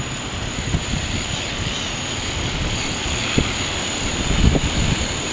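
Strong wind rushing and buffeting the microphone in gusts, with low rumbling thumps that peak about three and a half and four and a half seconds in.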